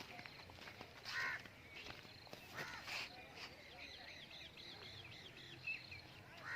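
Birds calling: a few harsh, caw-like calls in the first half, then a quick run of high chirps through the middle.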